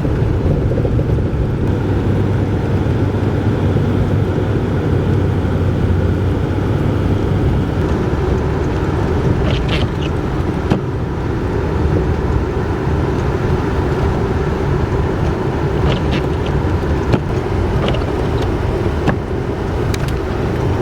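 Steady engine and road noise of a car being driven, with a few faint clicks partway through.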